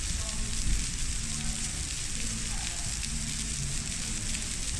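Heavy rain pouring down steadily, a dense even hiss, with a faint low hum beneath it.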